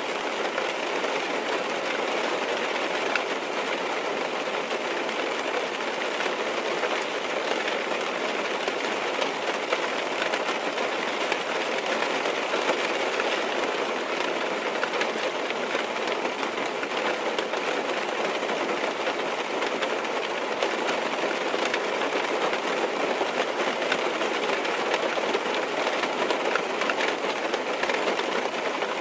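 Steady rain on a car's roof and windows heard from inside the car: an even hiss with faint scattered drop ticks.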